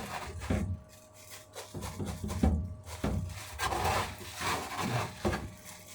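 Hands working sage and onion stuffing into a raw chicken: irregular soft knocks and rubbing as the bird is pressed and moved.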